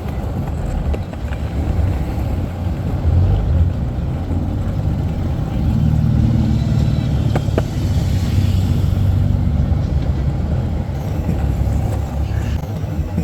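Car engines running, with a stronger, steadier engine note from about six seconds in and a single sharp click partway through.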